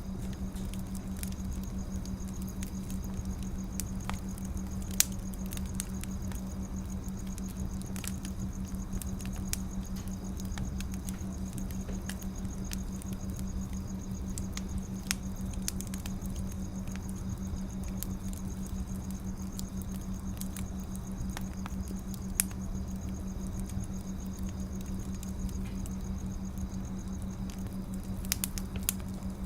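Wood fire crackling, with irregular sharp pops and snaps over a soft hiss and a steady low hum.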